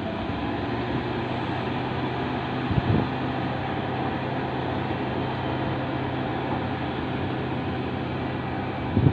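Heavy diesel truck engine running steadily with a low hum, with a brief thump about three seconds in.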